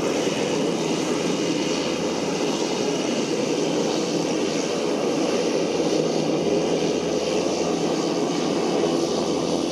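Bombardier Dash 8 Q300's twin turboprop engines and propellers making a steady, even drone.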